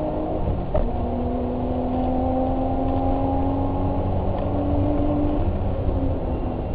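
Motor vehicle engine running steadily under way, with a heavy low rumble. Its pitch drops slightly about a second in, then rises slowly over the next few seconds.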